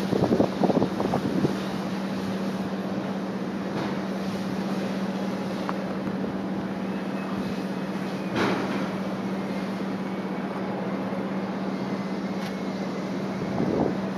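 Strong typhoon wind buffeting the microphone, with heavier gusts in the first second or so, briefly a little past halfway, and again near the end, over a steady hiss and a low steady hum.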